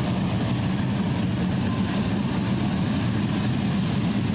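Several Harley-Davidson Police Special motorcycles running together, a steady low V-twin engine sound with no rise or fall.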